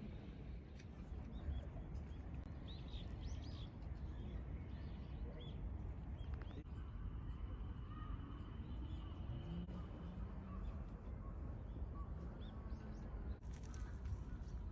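Outdoor ambience: a steady low rumble with small birds chirping now and then, mostly in the first half, and a thin whistling tone for a few seconds in the middle.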